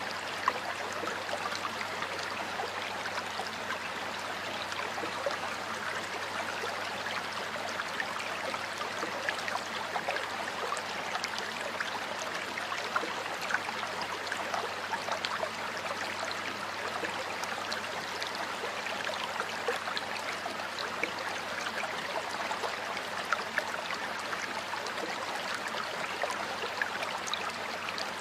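Stream water flowing steadily over stones, a continuous rushing with small splashes and gurgles scattered through it.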